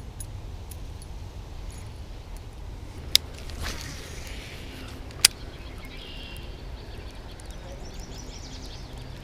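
Wind rumbling on the microphone, with two sharp clicks about two seconds apart.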